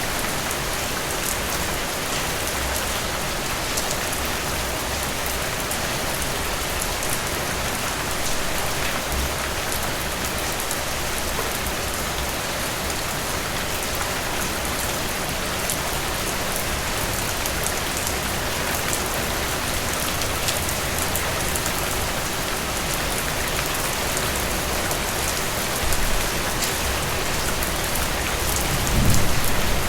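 Steady rain falling, an even hiss with many sharp individual drop hits. A low rumble swells in near the end.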